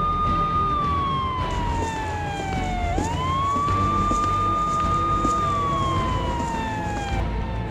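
Police siren wailing in slow cycles: the pitch rises quickly, holds high, then slides slowly down, restarting about every three seconds.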